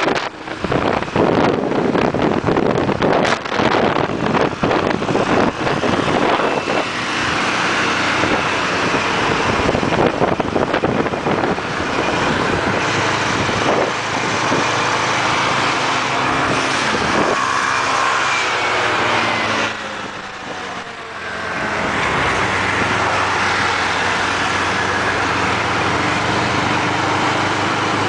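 Motorcycle engine running under way, with wind buffeting the microphone, heaviest in the first few seconds. The engine note shifts up and down in pitch, then goes quieter for a moment about two-thirds of the way through before picking up again.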